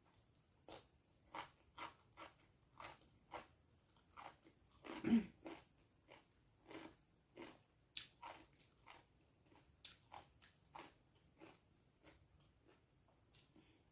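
Close-up eating sounds: a person chewing a mouthful of vinegar-braised galunggong fish, with a run of short wet smacks and chews about two a second and one louder, lower sound about five seconds in.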